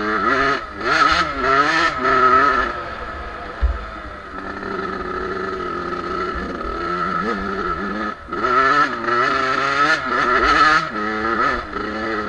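Two-stroke Suzuki motocross bike engine being ridden, revving up and down. Sharp bursts of throttle come about half a second and two seconds in, and again from about eight and a half to eleven seconds, with steadier running in between.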